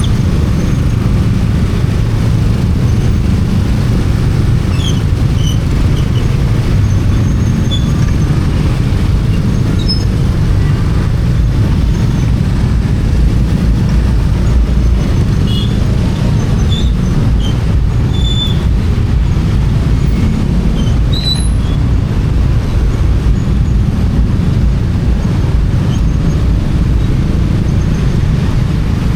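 Motorcycle on the move, heard from the rider's camera: a steady low rumble of engine and road noise, with a few faint short high chirps scattered through.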